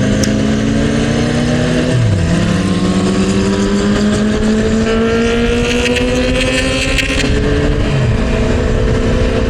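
Motorcycle engine running under way, its pitch climbing slowly and steadily as the bike gathers speed, over a steady rush of wind and road noise.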